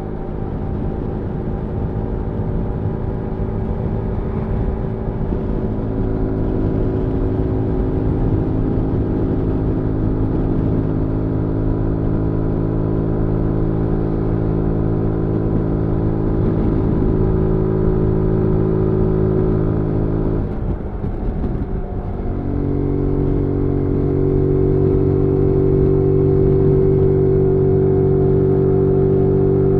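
The single-cylinder engine of a 2022 Zontes G1 125 Scrambler motorcycle under way, its note held steady. About two-thirds of the way through it breaks off briefly, then picks up again, steady and a little louder.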